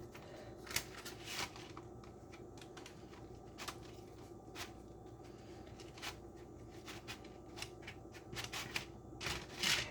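Parchment paper rustling and crinkling with scattered light clicks and taps as a filled soft tortilla is rolled up by hand.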